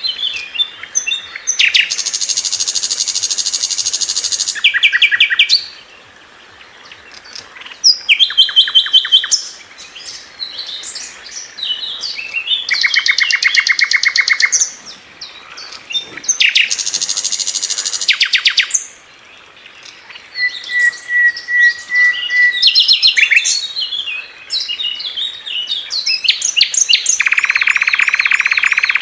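Sikatan londo flycatcher singing hard: bursts of fast, buzzy rattling trills mixed with sharp chirps and whistled notes, each run lasting a few seconds, with short pauses between. About twenty seconds in comes a steady, level whistle, and then a long, unbroken stretch of song.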